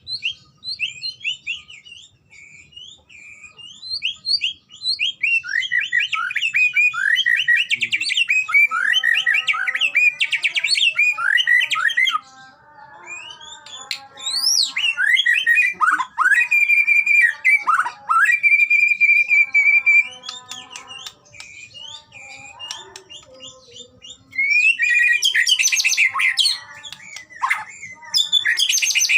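White-rumped shama singing: long phrases of rapid, varied whistles, rising and falling glides and trills, separated by quieter stretches of softer notes. One clear note is held for a couple of seconds near the end of the middle phrase.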